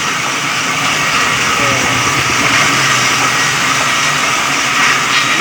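Electric sawmill running steadily, a loud, even hiss and whir with no breaks or knocks.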